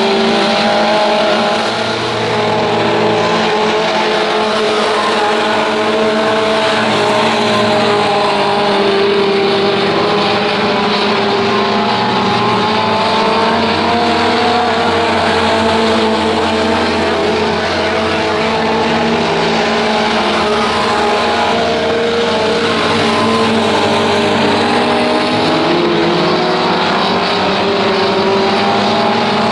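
Tough truck engines running hard and revving up and down, loud and continuous, with several engine notes overlapping.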